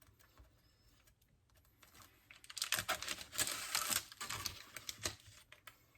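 A burst of rapid crackling and clicking handling noise that starts about two seconds in and lasts around three seconds.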